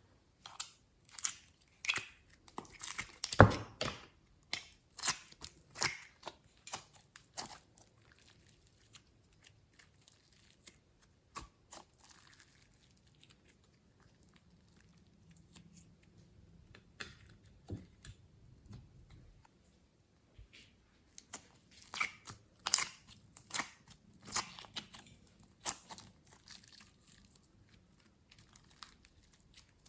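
Slime being worked by hand: irregular sticky crackles and pops, busy near the start and again past the middle, with a sparser, quieter stretch between.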